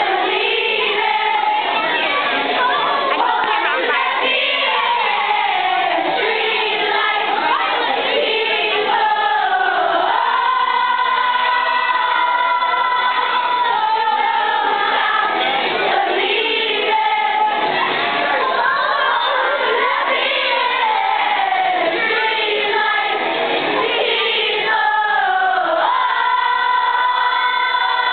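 A group of voices singing together like a choir, with long held notes and sliding pitches.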